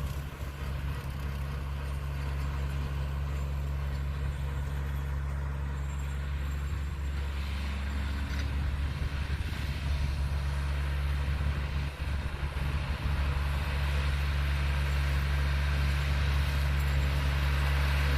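Tractor engine running steadily under load, pulling a bush hog rotary mower through a field, getting a little louder near the end.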